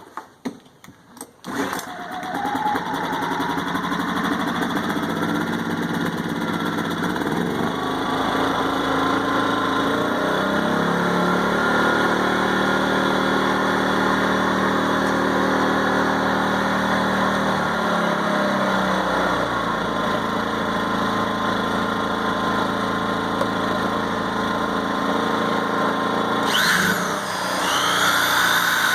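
WEN inverter generator pull-started, its small engine catching about a second and a half in and running steadily; partway through its engine speed rises for several seconds, then settles back down. Near the end an electric sander plugged into it starts up with a rising whine.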